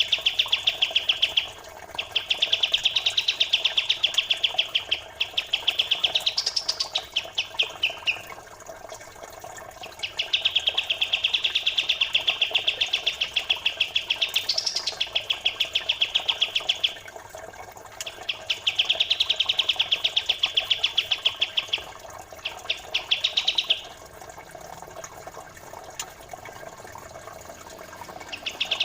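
Songbird training recording: long runs of a very fast, dense, high-pitched chattering song lasting a few seconds each, some ending in a short rising note, with brief pauses between. Underneath runs a steady trickle of flowing water.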